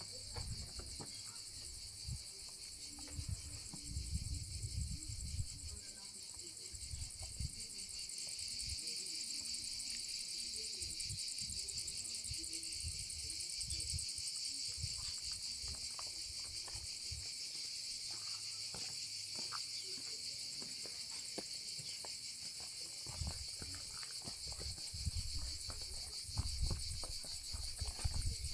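A dense, steady, high-pitched chorus of insects with a fine fast pulsing, growing louder about eight seconds in. Irregular low thumps come near the start and again near the end.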